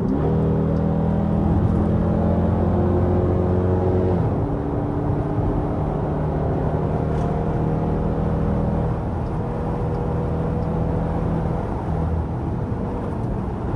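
Straight-piped exhaust of a Dodge Durango under way on the highway: the engine's drone climbs quickly at the start and holds for about four seconds, then drops in pitch and runs on steadily over tyre and road noise.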